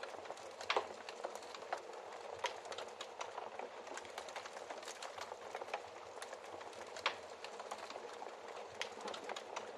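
Wood fire crackling in a fireplace: a steady hiss of burning with frequent sharp pops, two of them louder, about a second in and near the end.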